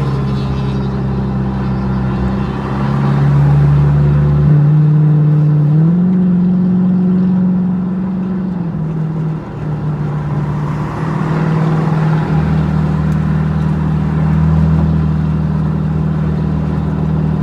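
Car engines running at a car meet: a loud, steady low exhaust drone whose pitch steps up about six seconds in and drops back near nine seconds, with a deeper rumble that fades out and comes back.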